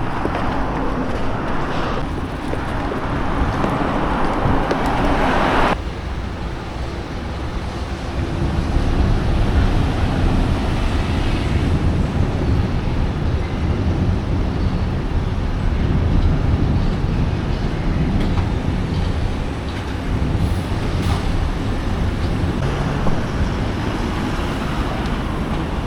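Steady city road traffic with a low rumble of passing vehicles; a brighter hiss over the first six seconds cuts off suddenly.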